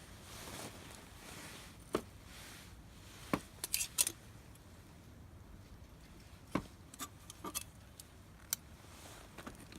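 Scattered sharp clicks and light metallic clinks, like tools or utensils being handled, over a low steady background. The clicks come irregularly, with a quick cluster of bright clinks about four seconds in.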